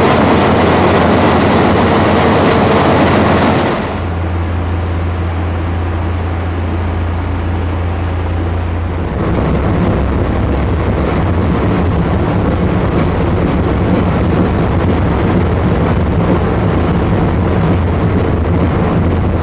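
Diesel locomotive running at a standstill with a steady low hum for the first few seconds. After a sudden drop there is a quieter steady hum, and from about nine seconds in the train is moving, with running noise and faint clicks of the wheels over the rail joints.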